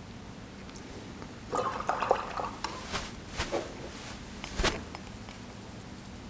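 A paintbrush swished and sloshed in a water container for a couple of seconds, followed by a few sharp taps against a ceramic dish or jar, the last tap the loudest.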